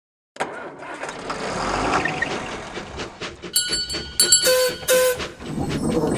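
Train sound effect: a running train with rail clatter, then several short whistle toots about three and a half to five seconds in.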